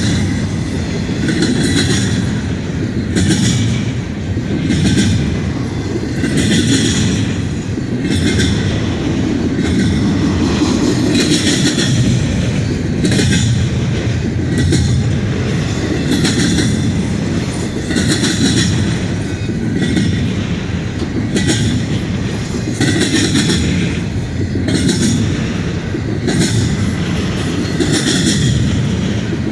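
CN intermodal freight train rolling past: a steady heavy rumble of the cars, with the wheels clacking over the track joints every second or two, often in pairs.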